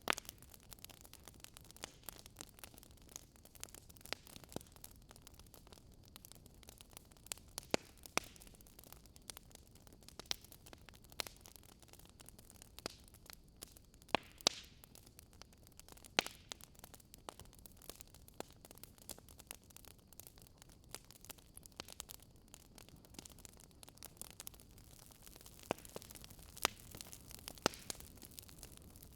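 Fireplace fire crackling: irregular pops and snaps over a soft, steady hiss.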